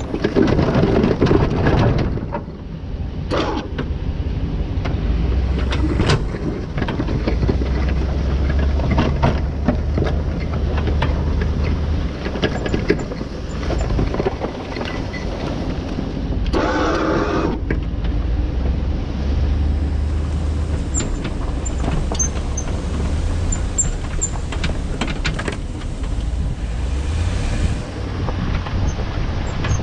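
A motor vehicle engine running steadily with a low rumble that rises and falls a little, with scattered knocks and clatter and a short harsh burst of noise just past the middle.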